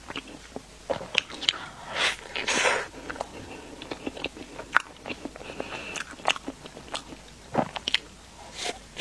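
Close-miked eating of a layered pastry: biting and chewing, with many short wet mouth clicks and a few louder crunchy bites about two seconds in.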